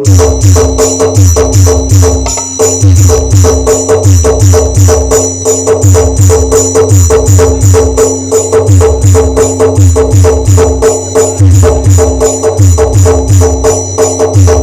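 Loud band music over a sound system: an electronic keyboard holding organ-like notes over a fast, heavy drum beat with deep bass thumps.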